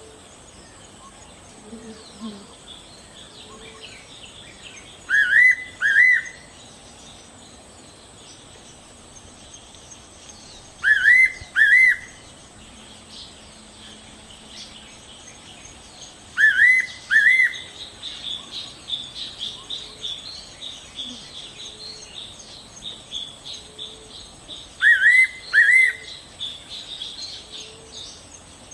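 A songbird calling in pairs of short, rising whistled notes, four pairs spaced several seconds apart. Softer, rapid high twittering runs under the calls in the second half.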